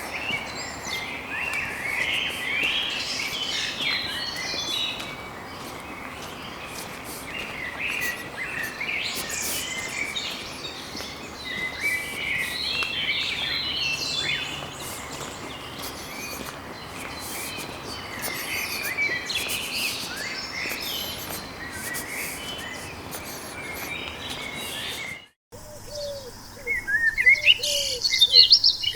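Wild birds singing: a busy chorus of chirps and warbled phrases over a steady background hiss. About 25 seconds in it cuts out for a moment and a different bird recording begins, with rapid high chirps and a repeated short low call.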